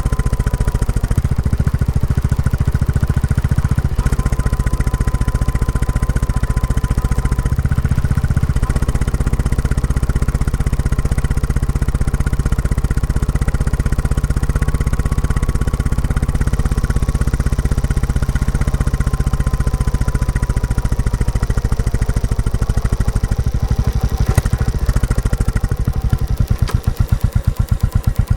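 Royal Enfield Classic 350's single-cylinder engine running through its stock exhaust on the move, a steady thumping beat. Near the end the beats turn slower and more distinct as the revs drop.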